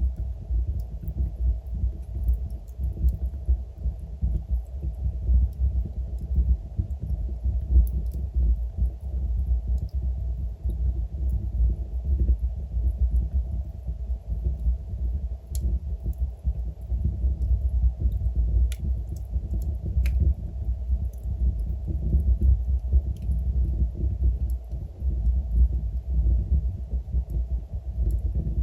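Fireplace fire burning with a deep, muffled rumble and a few faint, scattered crackles.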